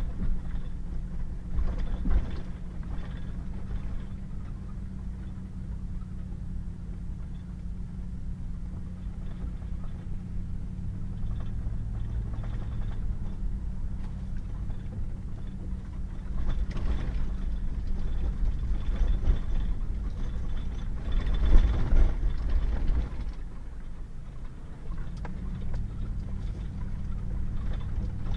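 Pickup truck driving on a wet, muddy gravel road: a steady low engine hum under tyre and road noise, with a few louder rough stretches, the loudest a little past the middle.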